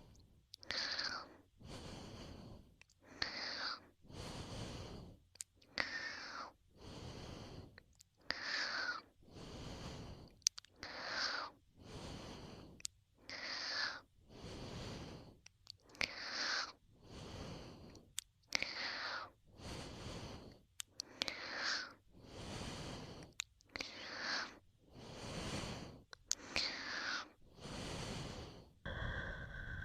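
Slow, even breathing and blowing close into a binaural ASMR microphone, about one breath every second and a quarter. Every other breath carries a falling pitch.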